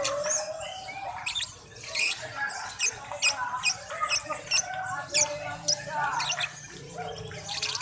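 Lovebirds chirping in quick, sharp, high notes, a few a second, over people talking.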